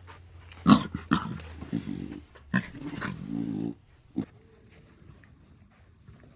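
An animal calling: a few short calls about a second in, then a longer one near three seconds that cuts off suddenly, followed by a single click and a quieter stretch.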